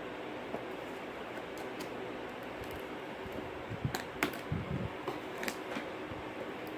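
Packing tape on a cardboard box being cut and picked at by hand. There are a few scattered sharp clicks and scrapes, bunched a little past the middle with a soft thud, over a steady hiss.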